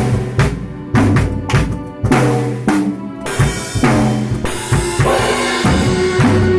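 A band rehearsing: a drum kit played with kick and snare hits and cymbals, over held low pitched notes from other instruments.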